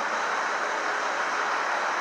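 Steady street noise: an even rush of city traffic and running vehicles, with no single distinct event.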